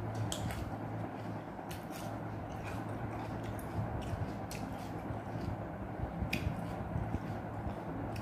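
A person chewing food with mouth noises and a few sharp smacking clicks at irregular intervals, over a steady low hum.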